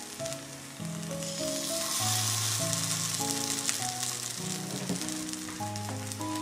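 Grated-carrot patties sizzling in oil in a nonstick frying pan. The sizzle grows louder about a second in as another patty goes into the pan, over background music.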